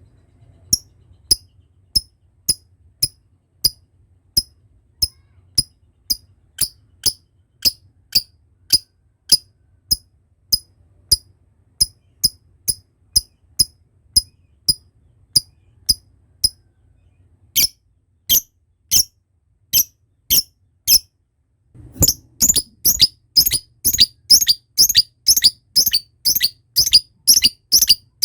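Lovebird 'ngekek' chatter: a long run of short, sharp, high 'kek' calls, about two a second. After a brief pause near the end they resume faster, about three a second.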